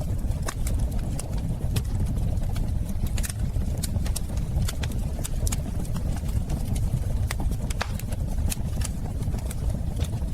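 Fireplace fire burning, with a steady low rumble and frequent irregular sharp crackles and pops of the burning wood.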